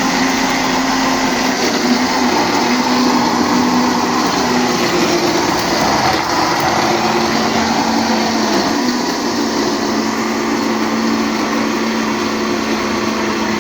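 An electric kitchen appliance's motor grinding green corn for canjica, running steadily under load, then switched off abruptly at the end.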